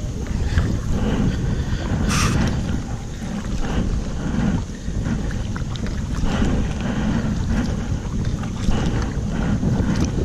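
Wind buffeting the camera microphone in a steady low rumble, with water splashing and slapping around a kayak; the sharpest splash comes about two seconds in.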